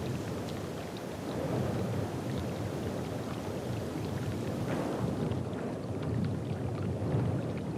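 Wind rumbling in uneven gusts, with a few faint ticks over it.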